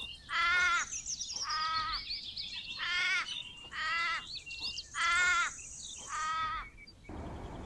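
A series of six harsh, caw-like animal calls about a second apart, with small birds chirping faintly behind.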